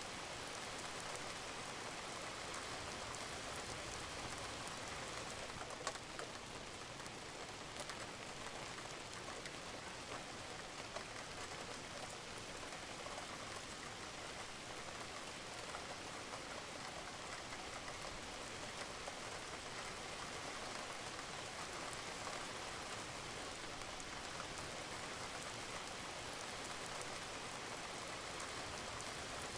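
Steady rain falling on a roof, a continuous hiss with scattered sharper drop taps.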